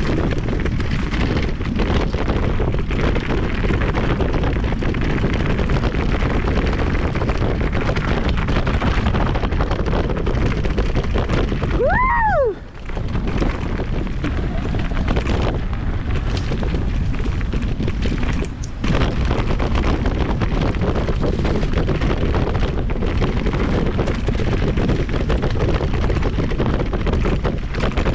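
Wind rushing over a helmet camera's microphone and tyre rumble as a mountain e-bike descends a trail at speed. About 12 seconds in there is a short pitched squeal that rises and then falls, followed by a moment when the rushing noise briefly drops.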